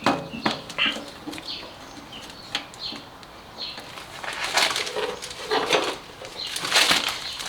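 Hand work on hoses and clamps: a run of light clicks and rustling, with louder scraping and rustling from about four seconds in.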